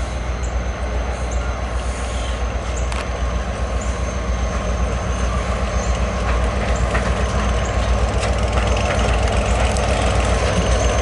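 Maryland Midland freight train's diesel locomotives passing close by: a steady low engine rumble with rail noise and faint regular clicks from the wheels, growing slightly louder toward the end.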